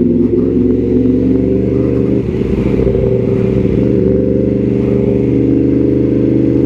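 Yamaha MT-10 SP's crossplane inline-four running through an Austin Racing exhaust while riding, a steady engine note with a brief dip about two seconds in, after which the pitch climbs slowly.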